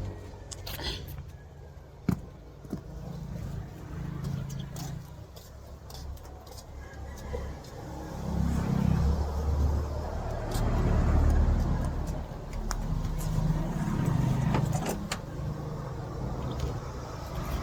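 A low vehicle engine rumble that swells and fades several times, with scattered sharp clicks and metallic knocks.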